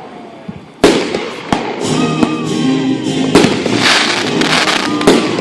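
Fireworks going off: a loud sharp bang about a second in, followed by further bangs and crackling, with music playing underneath.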